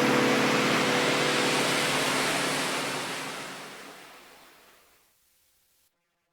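Recorded ocean surf, a steady wash of waves, fading out to silence over about two seconds from roughly three seconds in, with the last held notes of the jazz music dying away at the start.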